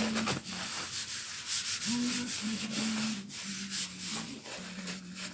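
Vintage Wahl Senior hair clipper running: a buzzing hum that shifts in pitch several times over a rasping, hissy rattle from the vibrating blades, the sound of a clipper still being adjusted.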